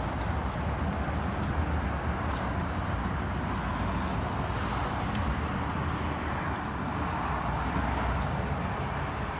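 Steady low rumble of cars running, with no single engine standing out.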